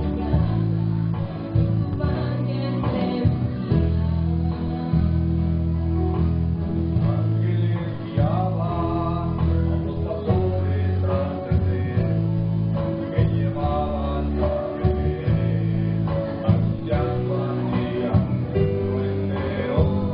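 A choir singing a Christmas song to strummed guitar accompaniment, over heavy, sustained low bass notes.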